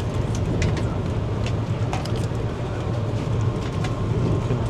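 Steady low rumble of a moving train heard from inside the passenger coach, with scattered light clicks over it.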